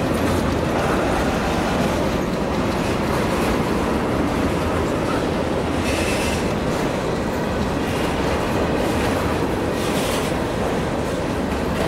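Freight cars of a passing train rolling by at close range, a steady rumble of steel wheels on rail with clickety-clack over the joints. There are brief flares of higher, hissing wheel noise about six and ten seconds in.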